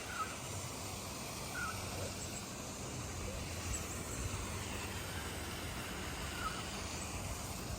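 Outdoor ambience: a steady low rumble with a few short bird calls scattered through it.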